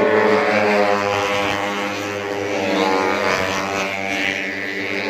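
150cc four-stroke underbone race motorcycles running at high revs on track, their engine notes drifting slowly up and down in pitch.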